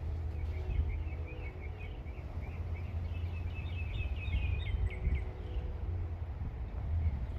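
Small birds chirping and twittering in quick runs, most busily about four to five seconds in and then stopping, over a steady low outdoor rumble.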